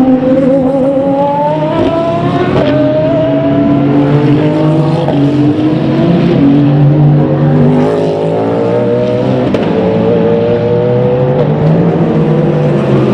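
Race car engine accelerating hard through the gears, its pitch climbing and then dropping sharply at each of several upshifts.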